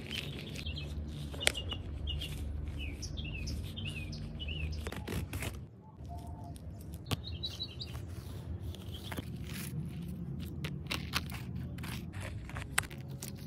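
Birds chirping outdoors in short repeated calls over a low steady rumble, with scattered sharp clicks, more of them in the second half.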